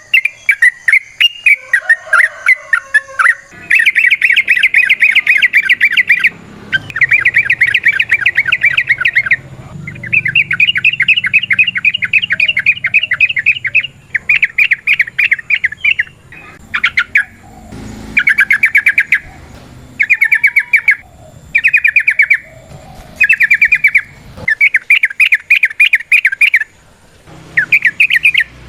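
Yellow-vented bulbul (trucukan) singing its 'ropel': long runs of rapid, repeated chirping notes lasting several seconds each, breaking into shorter bursts in the second half.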